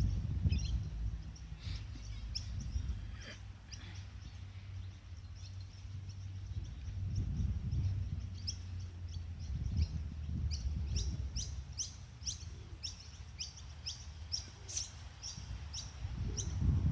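A bird calling a long series of short, falling chirps. They are scattered at first, then come steadily at about two to three a second from about halfway through, over a continuous low rumble.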